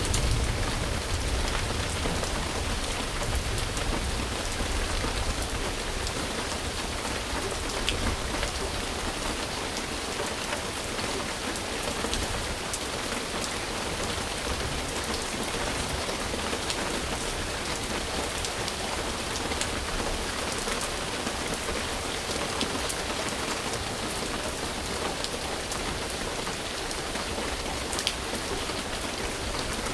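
Steady rain falling on a surface, an even hiss with fine scattered drop ticks. A low rumble underneath dies away over the first ten seconds or so.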